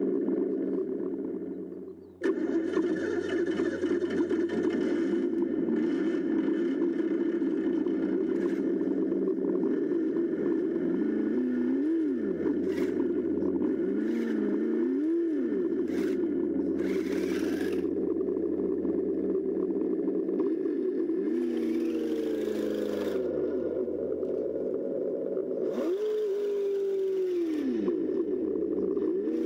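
Simulated engine sound from an ESS sound module in a 1/12-scale Kyosho Blizzard DX RC snowcat, played through its small speaker. The engine note runs steadily and dips and rises in pitch several times as the throttle changes. It cuts out briefly about two seconds in. Short bursts of hiss come from the model running in the snow.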